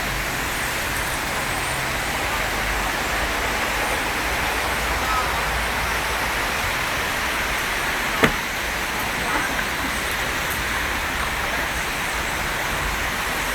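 Dense, steady chatter of a large flock of birds massed in street trees, blending into one continuous wash of calls over city traffic. A single sharp click about eight seconds in.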